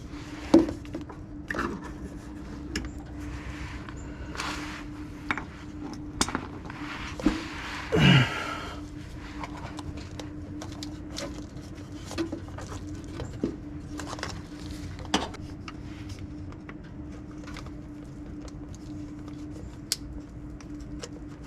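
Scattered clicks, knocks and scrapes of hands working on the van's EVAP vent solenoid and its fittings to get the part off, over a steady low hum.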